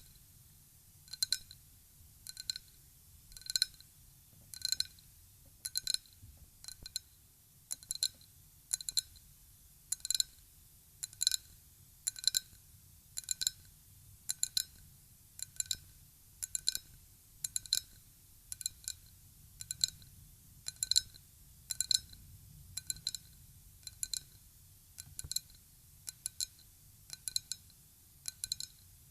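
Ryukyu glass being tapped at a steady pace of about one tap a second. Each tap is a quick double or triple tick followed by a short, clear glassy ring.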